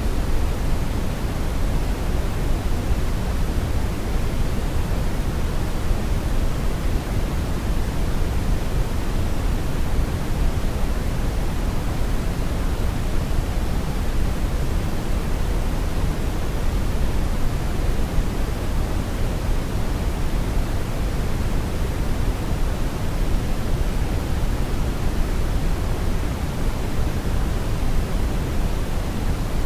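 Steady brown noise: an even, unchanging rumbling hiss with most of its weight low down, thinning out toward the top.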